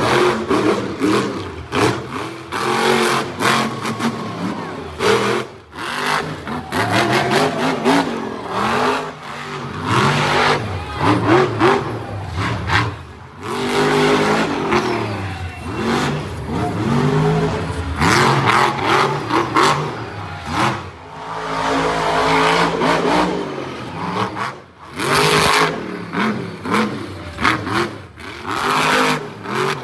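Monster truck engine revving hard, its pitch rising and falling over and over, with several sudden bangs along the way.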